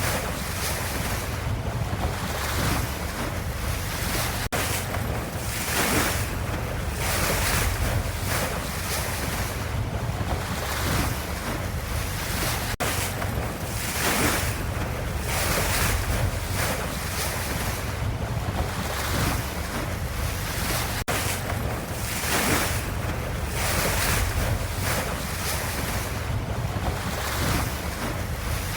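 Ocean waves washing steadily, with a low rumble underneath and repeated hissing surges every second or two.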